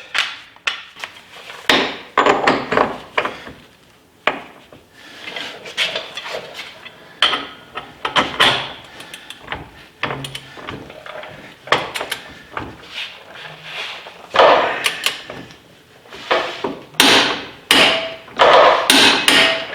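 Irregular metallic clanks, knocks and clicks of a large click-type torque wrench and socket being set and worked on the centre hub nut as it is tightened to about 200 foot-pounds, with louder clusters of clatter now and then.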